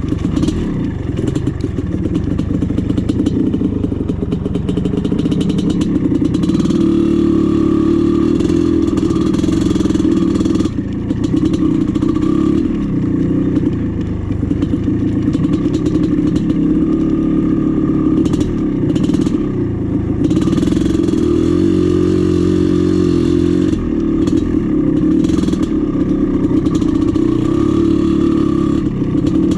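1996 Maico 440 two-stroke dirt bike engine under way on a trail, its revs rising and falling again and again with the throttle and gear changes.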